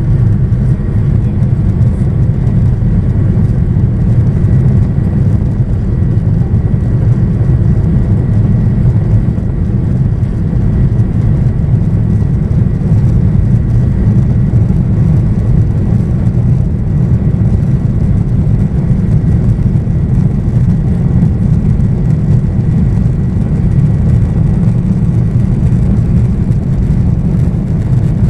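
Boeing 737-800's CFM56 jet engines running steadily, heard from inside the cabin as a loud low rumble with a faint thin whine.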